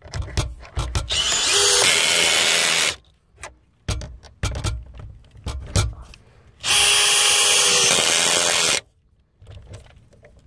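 Power drill run in two bursts of about two seconds each, with short knocks and clicks in between.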